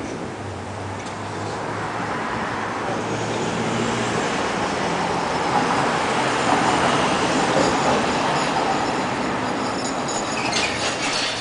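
Vehicle noise with a low steady hum, building up to its loudest about halfway through.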